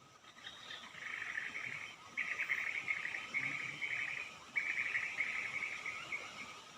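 A bird's rapid, buzzy chattering call, given in a string of short bursts one after another for about six seconds.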